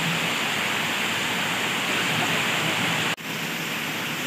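Heavy rain pouring down steadily. The sound breaks off abruptly about three seconds in and comes back a little quieter.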